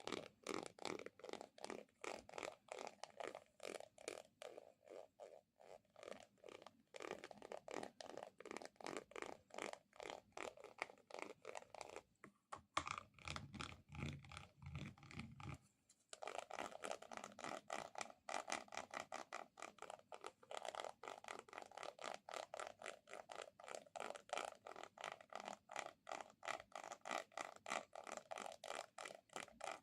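Rapid, rhythmic sticky tapping sounds, several a second. From about twelve to sixteen seconds in they turn duller and deeper.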